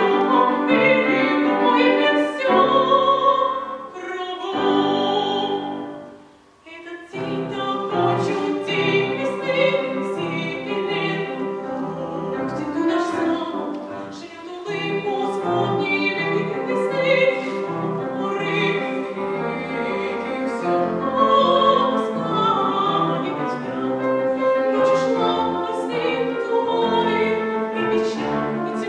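A young singer singing in classical style with vibrato over piano accompaniment. The music thins and briefly drops away about six to seven seconds in, then voice and accompaniment resume.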